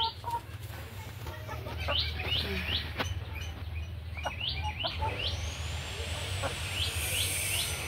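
A bird chirping: short rising chirps in runs of two or three, repeated through the clip, over a low steady hum. From about five seconds in, a thin high tone wavers slowly up and down.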